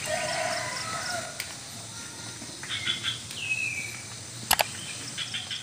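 Several small birds chirping and calling, with a short falling whistle about three seconds in, just after a quick run of repeated notes. Two sharp clicks, the loudest sounds, come in quick succession about four and a half seconds in.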